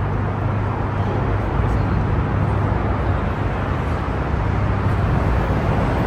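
Car engines idling with a steady low drone.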